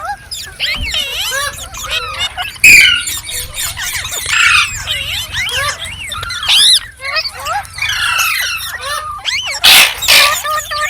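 Several green parrots chattering and screeching over one another in quick, rising and falling chirps and squawks. There is a louder harsh screech about three seconds in and another near the end.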